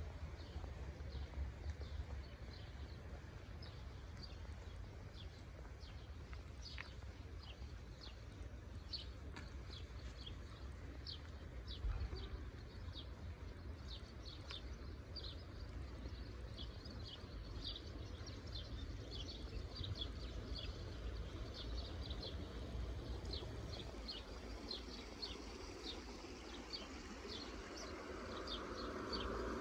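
Small birds chirping, many short high notes repeating throughout, over a low steady rumble. Near the end a vehicle approaches and grows louder.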